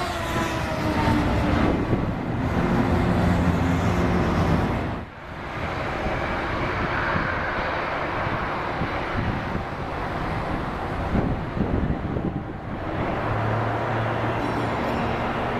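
Jet noise from arriving Airbus A330-300 airliners with Rolls-Royce Trent 700 engines, a steady rushing roar with some drawn-out tones. It breaks off about five seconds in where one aircraft's sound gives way to the next's.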